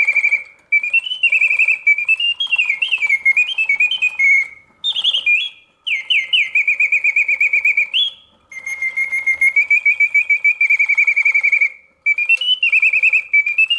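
Vintage 1968 Reuge singing birdcage's bellows-blown whistle singing a mechanical bird song: high trills and quick rising and falling slides in phrases with brief breaks, over the faint rapid ticking of its clockwork mechanism. The song is sweet and hits its proper oscillating notes, the sign of a freshly serviced mechanism running smoothly.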